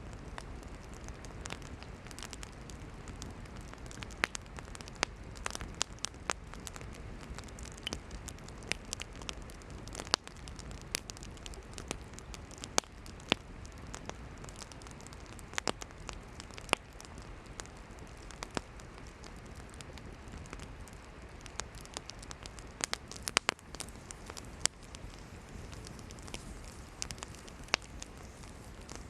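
Wood campfire burning, with frequent sharp, irregular pops and crackles from the firewood over a steady hiss of flame.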